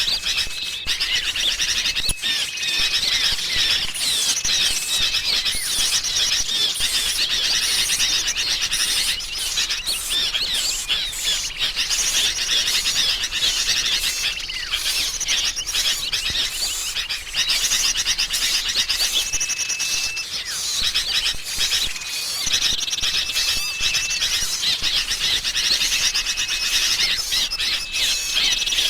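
Dense, unbroken chorus of agitated small songbirds: sooty-headed bulbuls (kutilang) calling noisily, mixed with other small birds such as prenjak, a lure recording of an excited flock used to draw small birds in. Rapid overlapping high chirps, with a thin held whistle that comes and goes.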